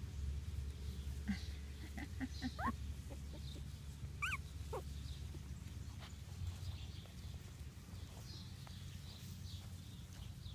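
A litter of 20-day-old puppies whining and squeaking: short high squeals that rise and fall, bunched in the first five seconds, with fainter squeaks scattered after, over a steady low hum. The puppies are hungry and calling for their mother.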